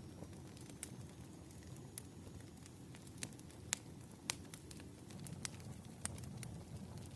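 Wood fire crackling: a low steady rumble of burning logs with sharp, irregular pops, the two loudest a little before and just after the middle.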